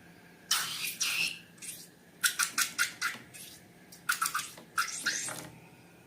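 Slime being handled: short clusters of sticky clicks and squelches, a few bursts with quiet gaps between them.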